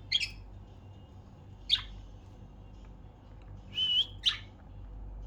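Pet budgerigars calling: three short sharp chirps spread over a few seconds, with a brief whistled note just before the last one.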